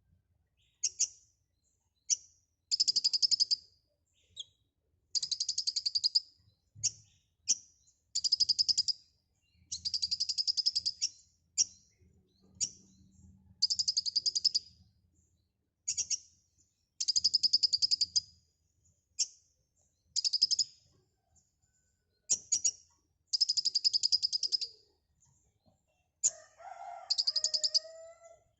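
Konin (kolibri ninja) sunbird singing at full voice: bursts of rapid, high, buzzing trills, each about a second long, broken by short sharp chirps. Near the end a lower, gliding warble sounds alongside the trill.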